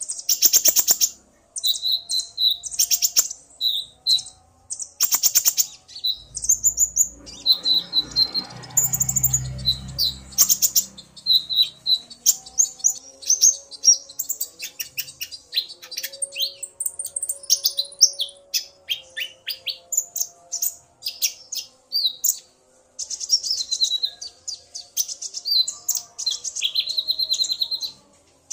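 Konin (kolibri ninja) sunbirds singing: a male's rapid, high-pitched chirping and trilling answered by a female's calls, almost without pause. A brief low rumble sounds underneath about a third of the way in.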